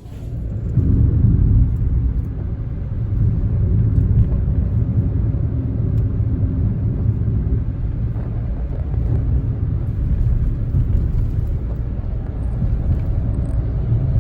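Kei car driving along the road: a steady low rumble of engine and road noise.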